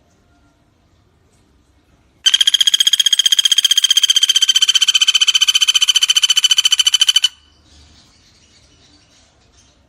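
A pelatuk bawang woodpecker gives one long, fast, even rattling trill of many quick notes at a steady pitch. The trill starts about two seconds in and lasts about five seconds.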